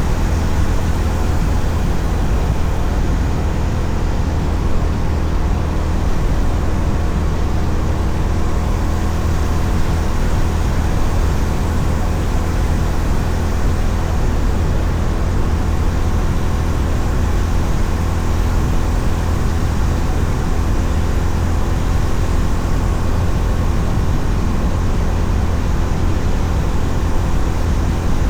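Honda CB350RS's single-cylinder engine running at a steady cruise, under a constant rush of wind and road noise.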